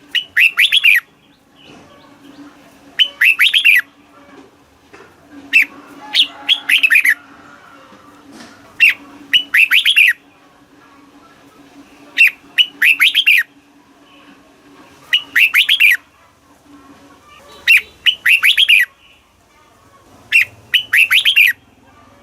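Red-whiskered bulbul singing, repeating its short phrase about eight times, one every two to three seconds. Each phrase is a sharp opening note followed by a quick run of bubbling, falling notes. A faint steady low hum sits underneath.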